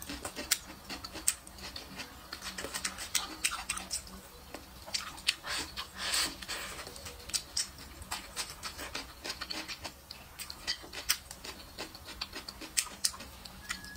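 Close-miked mouth sounds of eating braised meat: irregular wet smacks, clicks and chewing as pieces are bitten off and chewed, with a louder bite about six seconds in.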